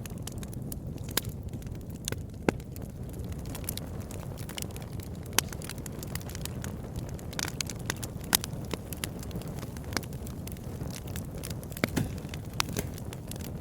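Campfire burning, with a steady low rumble of flames and scattered sharp crackles and pops of burning wood at irregular intervals.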